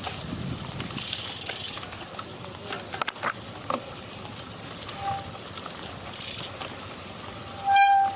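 Gravel bike riding off-road: rattling clicks and freewheel ticking over a noisy trail background, with one short, loud high-pitched squeal near the end.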